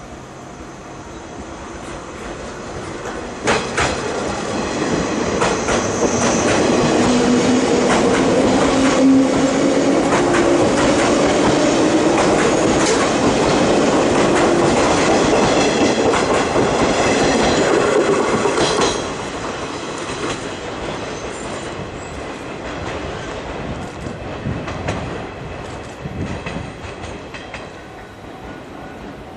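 JR East 583 series electric train running through a station close by, loud for about fifteen seconds as the carriages pass, with repeated knocks and a low tone rising in pitch. The sound then drops suddenly to the quieter running of the same train approaching from further off.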